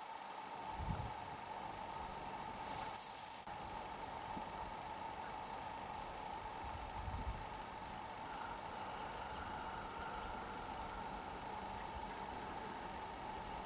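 Insects chirring: a high, steady chirr that starts and breaks off every second or two, loudest for a moment about three seconds in, over a faint steady hum.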